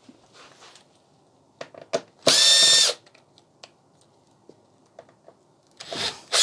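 Electric drill-driver spinning briefly, about half a second of steady high whine, backing screws out of a TV's casing. A few light clicks and knocks of handling come just before it, and a second burst starts at the very end.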